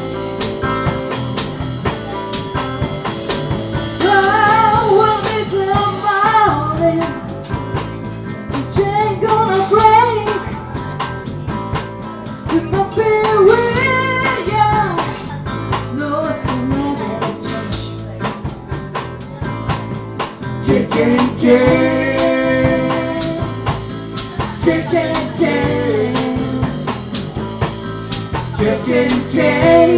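Live blues band playing an instrumental stretch of a song: drums, bass and guitar keep a steady groove while a lead instrument plays bending, wavering phrases over it.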